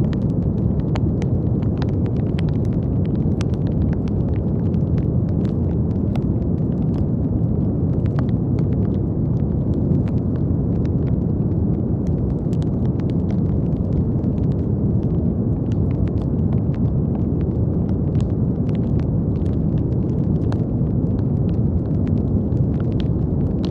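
Steady brown noise: a deep, even rushing hiss weighted toward the low end, with faint, irregular crackling clicks scattered through it.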